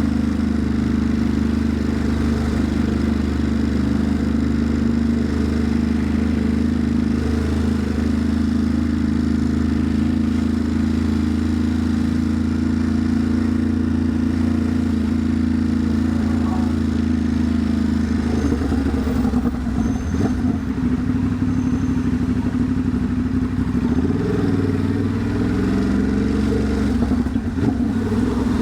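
Ducati Monster's V-twin engine running steadily under the rider. About two-thirds of the way through, the engine note begins to waver and shift.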